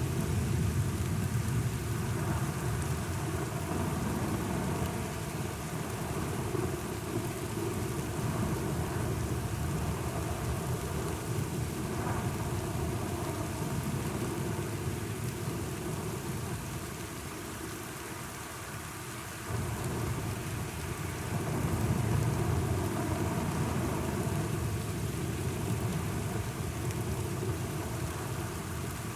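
Thunderstorm: steady rain with low rolling thunder underneath. The rumble dies down about two-thirds of the way through, returns suddenly and swells again a couple of seconds later.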